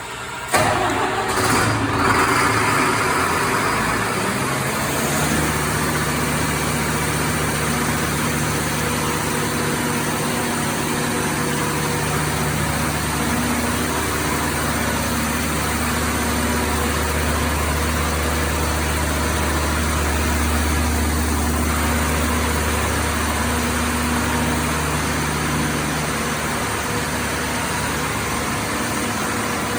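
Scania five-cylinder stationary diesel engine of an emergency fire-pump set, running. The sound rises abruptly about half a second in, then settles after a few seconds into a steady running note. The engine is misfiring, and the fault is traced to a seized relief valve starving it of fuel.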